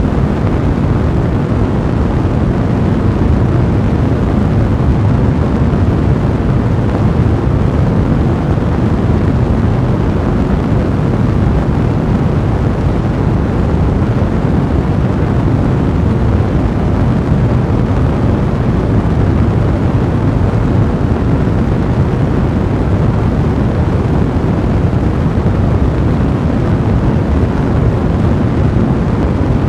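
Fire in a fireplace burning with a steady, low, even rush of flame noise.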